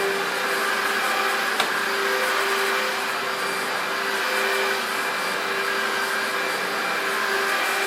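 Electrolux Contour Z1501 upright vacuum cleaner's 1300 W motor running steadily, a constant rushing noise with a steady hum under it. A single short click about a second and a half in.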